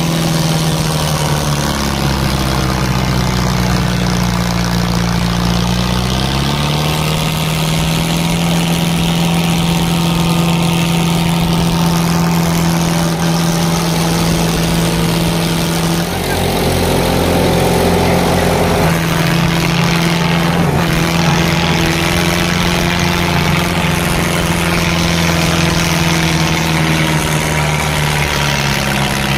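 Tractor diesel engines running hard under load, a steady loud drone whose pitch sags for several seconds early on and then climbs back up. The sound shifts abruptly about halfway through.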